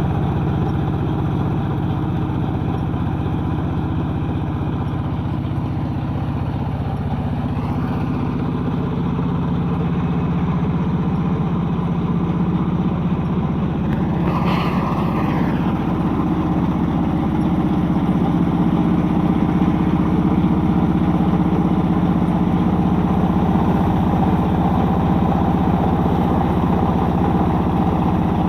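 Yanmar YH 150 mini combine harvester running steadily with a continuous engine hum, growing a little louder in the second half. About halfway through there is a brief higher-pitched sound that rises and falls.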